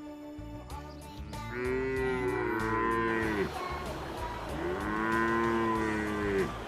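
Cow mooing twice, two long drawn-out calls that rise and then fall away, with faint background music under them.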